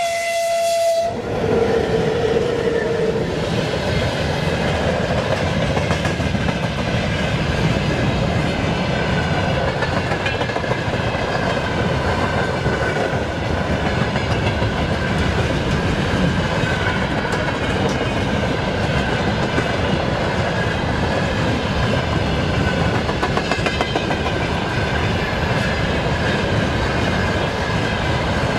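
VL10U electric locomotive sounding a short horn blast, then its train rolling past close by: steady wheel and rail noise with clickety-clack over the rail joints and a faint wavering squeal.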